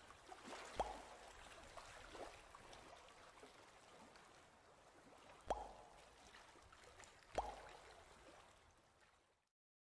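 Faint water sound effects: a soft watery wash with a few bubbly plops, fading away and cutting off near the end.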